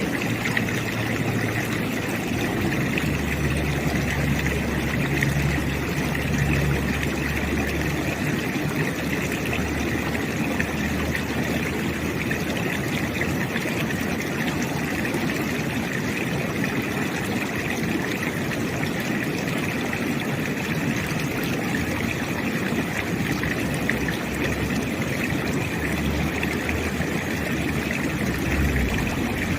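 River water rushing steadily, with the low hum of road traffic underneath that swells as vehicles pass, most plainly a few seconds in and again near the end.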